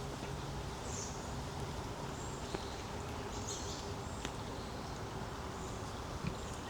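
Woodland ambience: a steady low rush of background noise, with short high bird chirps about a second in and again around three and a half seconds.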